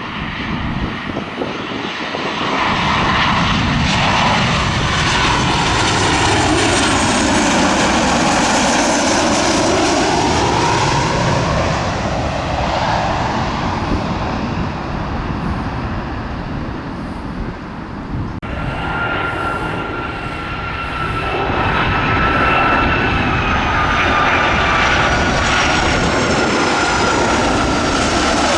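Aircraft engines roaring as a plane passes low and close overhead, the sound swelling in the first few seconds and sweeping in pitch as it goes by. About two-thirds of the way through the sound changes abruptly to another aircraft's engine roar with a steady whine over it.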